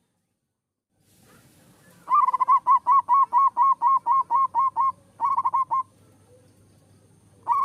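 Zebra dove (perkutut) cooing. About two seconds in, a rapid run of about fifteen clipped, pitched notes at roughly five a second. After a brief pause comes a short run of about five more, and another run starts near the end.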